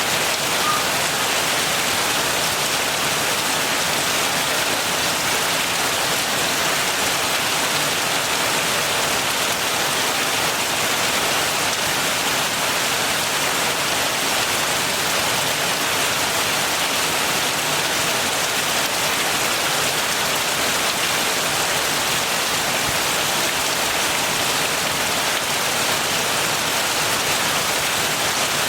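Steady heavy rain falling and hitting surfaces, an even hiss that doesn't let up.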